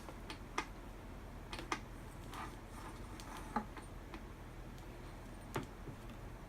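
A few light, separate clicks and taps of metal tools and small engine parts being handled during engine assembly, over a steady low hum.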